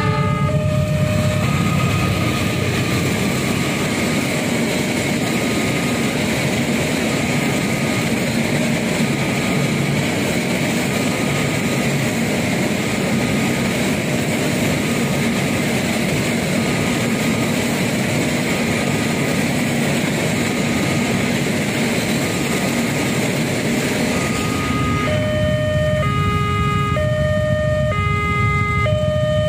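A cement freight train passing over a level crossing: a steady loud rumble of wheels on rail, with the crossing's electronic warning alarm faint beneath it. About 25 seconds in, the train noise drops away and the alarm's repeating two-note chime rings out clearly.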